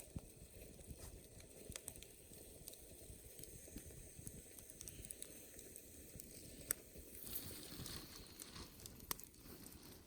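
Campfire crackling faintly, with scattered sharp snaps and pops over a low steady rush; one pop stands out about two-thirds of the way through.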